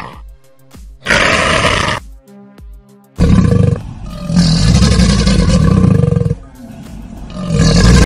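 Loud, rough animal calls laid over background music with a steady beat. There is a call of about a second starting about a second in, a long call of about three seconds from about three seconds in, and a call that rises in loudness near the end.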